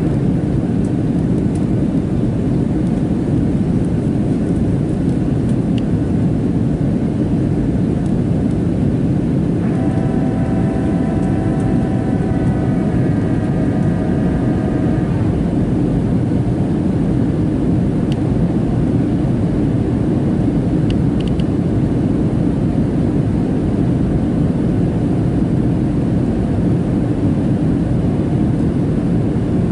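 Steady cabin noise of a Boeing 737-700 with its CFM56-7B engines running: a loud, even roar. From about ten seconds in, a whine of several steady tones joins it for about five seconds, stepping down in pitch partway through.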